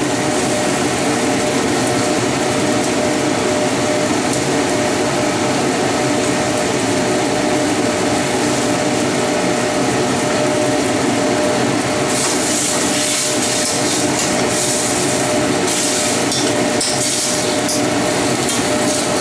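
Tomatoes and luncheon meat sizzling in a hot wok over a steady hum. About twelve seconds in the sizzle grows louder and more uneven as ketchup goes into the hot pan and is stirred.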